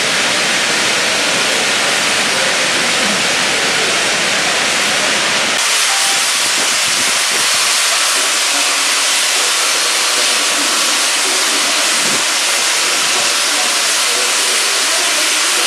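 Loud, steady hiss of escaping steam from a steam locomotive. About five and a half seconds in it changes abruptly, losing its low rumble and turning brighter.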